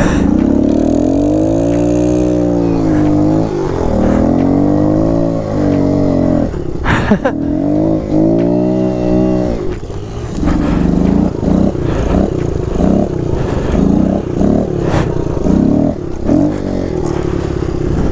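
Small single-cylinder four-stroke Kawasaki KLX pit bike engine revving, its pitch rising and falling in long swells, then short quick throttle blips in the second half.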